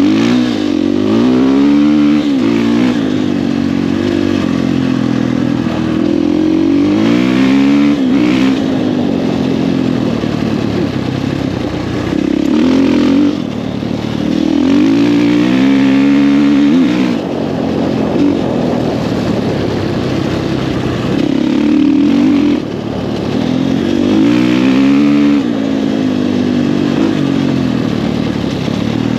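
Husqvarna FE450 single-cylinder four-stroke dirt bike engine through an FMF 4.1 aftermarket exhaust, ridden at full power. Its pitch climbs hard under acceleration, then drops back, over and over.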